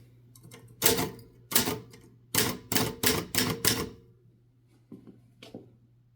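1969 Adler J5 manual typewriter being typed on: seven sharp key strikes, the later ones coming quicker, followed by a couple of fainter clicks near the end.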